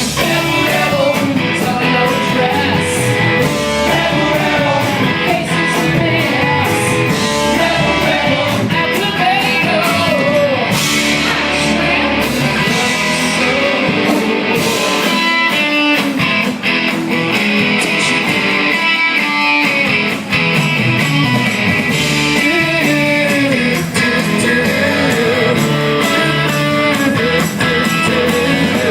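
Live rock band playing loudly, led by electric guitar over drums, with some singing.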